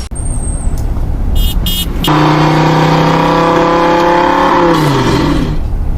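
An RC car's motor running: a rumbling start, then a steady high-revving drone that winds down in pitch near the end.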